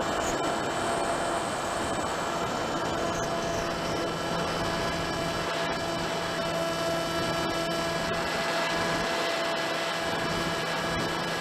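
Electric motor and propeller of a HobbyKing Drifter RC model plane running at steady throttle in flight, a constant buzzing drone with rushing air noise over it.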